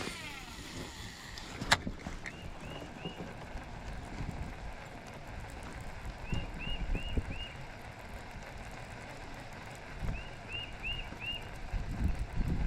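Wind rumble and low bumps on the microphone, with two sharp clicks in the first two seconds. A bird calls throughout in short, quickly repeated chirps, in groups of three or four every few seconds.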